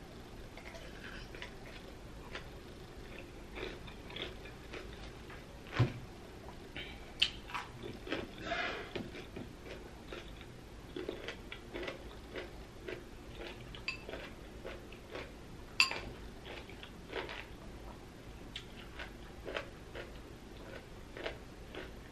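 Close-up biting and chewing of a whole pickled yellow radish: wet crunches and mouth clicks, with a few sharper clicks about six, seven and sixteen seconds in.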